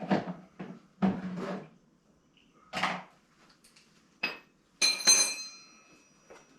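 Metal tools or parts being handled: a series of separate clanks and clatters about a second apart, the last, about five seconds in, ringing on briefly like struck metal.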